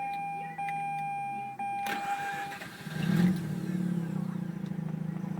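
2004 Mazda RX-8's twin-rotor Wankel rotary engine being started: a steady high tone, then the starter cranks about two seconds in, the engine catches about a second later and settles into a steady idle.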